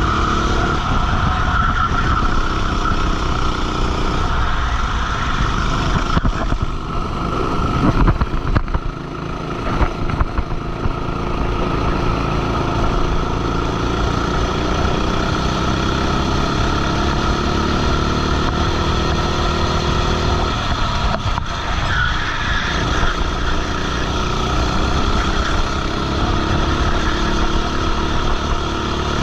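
Racing kart engine at full throttle, heard from onboard the kart. Its pitch climbs steadily through a long acceleration and drops away twice as the throttle is lifted for corners, once about a third of the way in and again about two-thirds in.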